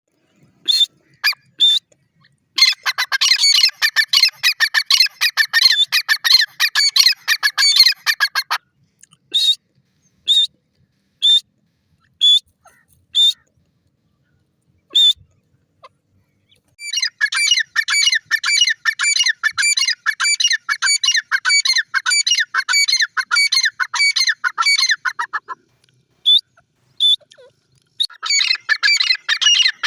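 Francolin (teetar) calling: sharp single notes scattered through, and long runs of fast, chattering repeated notes lasting several seconds each, three times.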